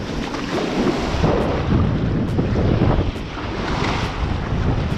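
Wind buffeting the microphone over steady surf washing on the beach.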